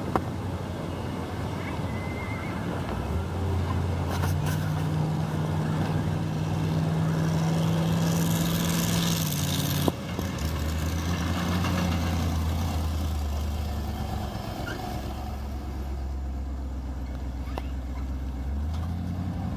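Monster truck's small-block Chevy V8 running as the truck drives, its engine note stepping up about three seconds in, dropping about ten seconds in and rising again near the end. A sharp click sounds near the start and again about ten seconds in.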